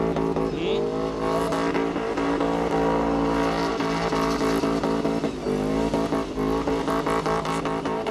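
A drifting car's engine held at high revs as it spins donuts with its wheels spinning and tyres screeching. The revs dip and climb back twice, once near the start and once past the middle.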